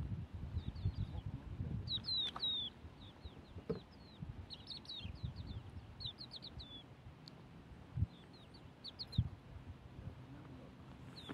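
Small birds chirping, many short falling chirps in quick clusters, over a low rumble that fades after the first couple of seconds, with a few soft knocks later.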